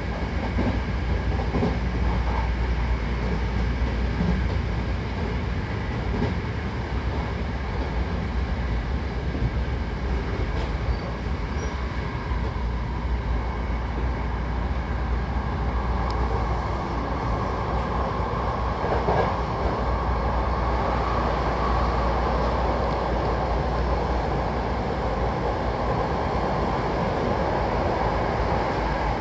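Hankyu Takarazuka Line train running, heard from inside the passenger car: a steady, continuous rumble of wheels on rail, growing brighter about halfway through.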